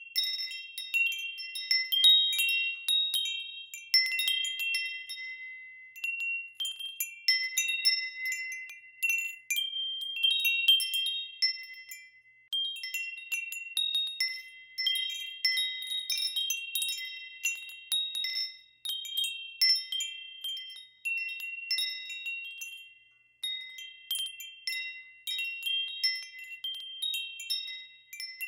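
Wind chimes ringing, several high tones struck in irregular clusters that overlap and ring on. The ringing thins out briefly about twelve and twenty-three seconds in.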